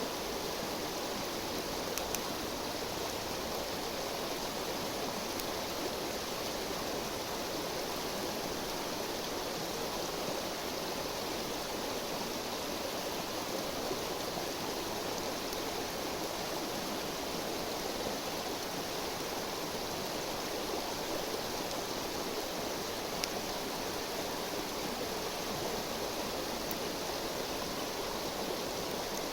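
Steady rushing and murmuring of a river, with a couple of faint sharp clicks.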